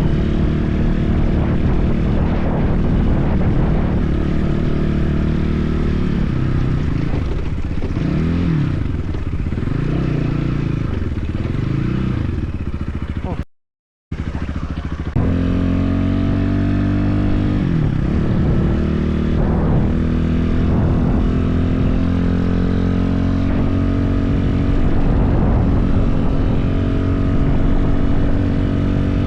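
BSE enduro motorcycle engine running under way, its pitch rising and falling as the rider speeds up and eases off; the sound cuts out completely for about half a second a little before halfway, then the engine note runs steadier.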